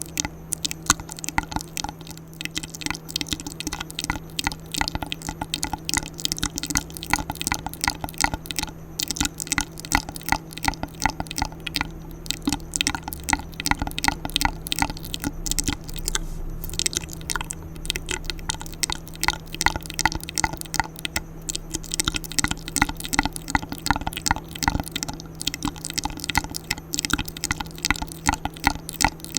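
ASMR mouth sounds close to the microphone: a dense, continuous run of wet clicks and smacks.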